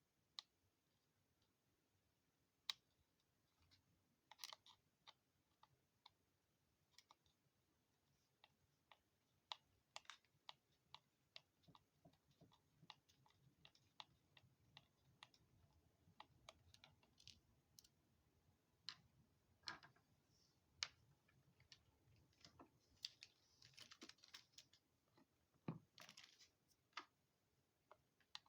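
Quiet, irregular clicks and taps of small hand tools and parts on a bench as a radio-controlled crawler's front axle is taken apart. There is a brief rustling scrape a little over three-quarters of the way through.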